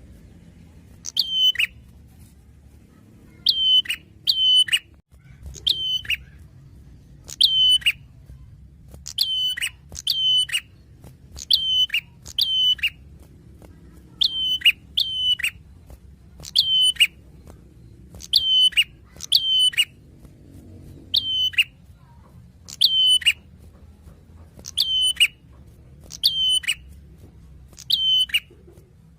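Prinia (prenjak) calling: short, sharp chirps repeated every second or so, often in pairs, each dropping in pitch.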